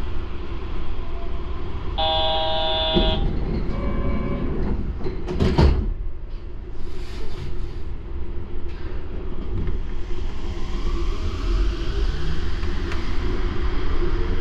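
Steady low rumble inside a Yurikamome automated guideway train car. About two seconds in, a bright multi-tone chime sounds for about a second, then a single sharp thud comes a few seconds later, and near the end a rising electric whine begins as the train speeds up.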